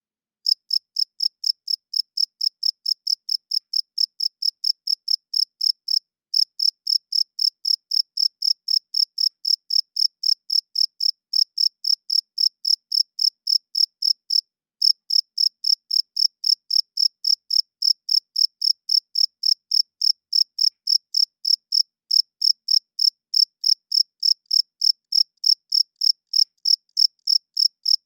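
Male cricket chirping in a steady, even rhythm, a high-pitched chirp about three times a second, starting about half a second in and pausing briefly twice.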